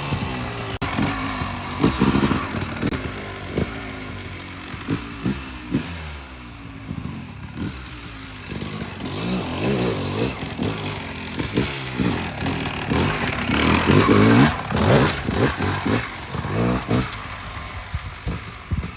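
Two-stroke dirt bike engine revving again and again in short blips, its pitch rising and falling with each blip, loudest about two thirds of the way through.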